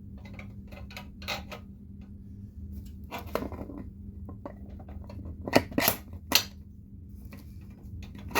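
Small metal parts clinking and clanking as the front axle bolt, washers and nut are worked onto a minibike's front wheel and fork: scattered sharp clicks, with a quick cluster of louder clanks a little past halfway and another right at the end, over a steady low hum.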